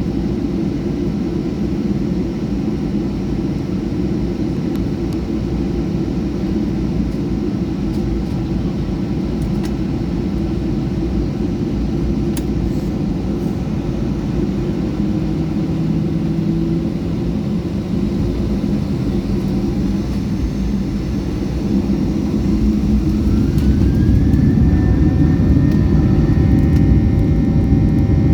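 Boeing 737-800 cabin noise with its CFM56 jet engines and a steady low rumble. Near the end the engines spool up with a rising whine that settles into a steady high tone, and the sound grows louder: power coming up for the takeoff roll.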